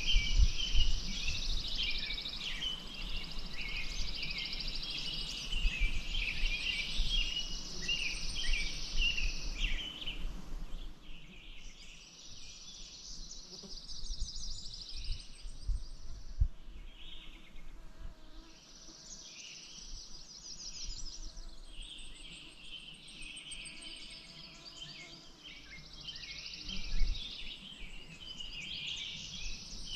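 A chorus of many birds chirping and trilling together, thinning briefly about a third of the way through. Low rumbles of wind on the microphone come near the start and again about 27 seconds in.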